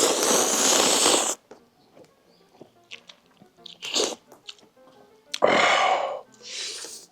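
A person slurping hot ramen noodles: a long slurp at the start and another about five and a half seconds in, with shorter slurps and breaths between. Quiet background music runs underneath.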